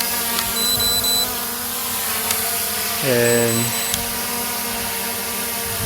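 SJRC F11S 4K Pro quadcopter hovering close by, its motors and propellers giving a steady buzzing hum that holds one pitch throughout.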